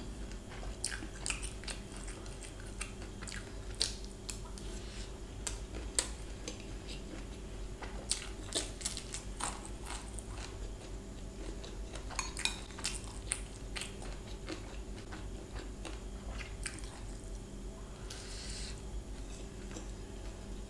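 Close-miked mouth sounds of someone chewing a mouthful of Schezwan paneer fried rice: wet smacks and scattered small clicks. A metal spoon now and then scrapes and taps against a glass bowl. A faint steady hum runs underneath.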